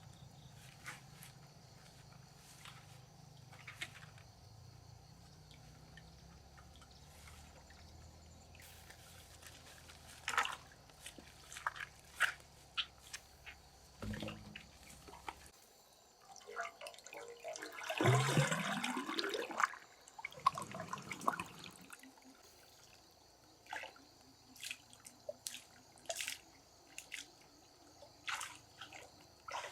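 Water dripping and splashing in short, scattered sounds. About two-thirds of the way through comes a louder, longer rush of water that rises in pitch.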